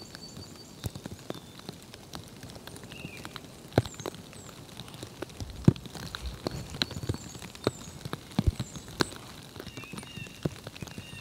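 Irregular sharp ticks and taps, several a second, with a few faint, short, high chirps of small songbirds in between.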